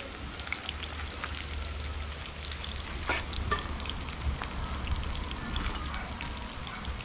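Food frying in hot oil: a steady sizzle with scattered crackles and pops, over a low steady rumble.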